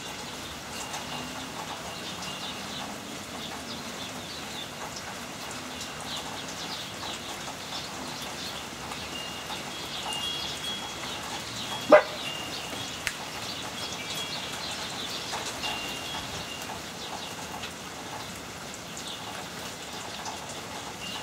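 Steady heavy rain falling, with scattered short, high ringing tones over it and one sharp, loud click about halfway through.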